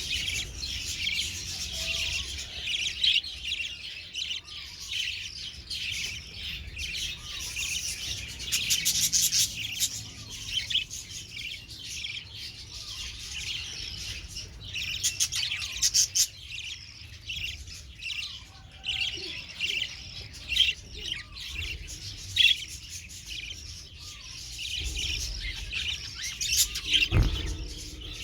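Budgerigars chattering without pause in quick, high chirps and warbles, with several louder bursts. A single low thump comes near the end.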